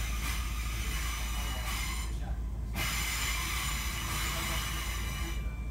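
Class 465 Networker electric multiple unit running, heard from inside the carriage: a steady deep rumble under a high, hissing whine. The whine cuts out briefly about two seconds in and again near the end.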